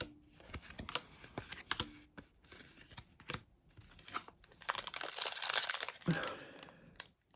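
Foil trading-card booster pack wrapper crinkling and tearing open, a dense crackle about five seconds in, after scattered light clicks of handling.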